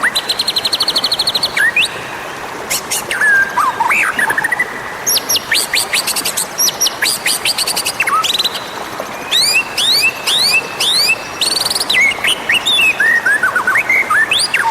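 White-rumped shama (murai batu) singing a fast, varied song without pause: rising whistled sweeps, rapid buzzy trills and sharp chirps.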